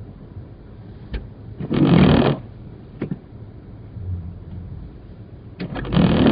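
Steady low rumble inside a moving Chevy Blazer's cabin, broken twice by a loud short burst of rustling noise, with a few sharp clicks between them.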